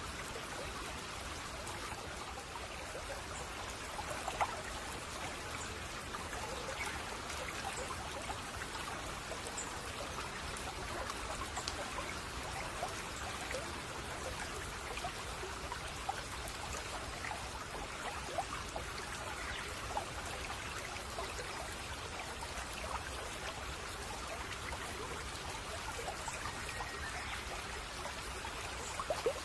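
Shallow babbling brook trickling and gurgling steadily over stones, with many small splashes.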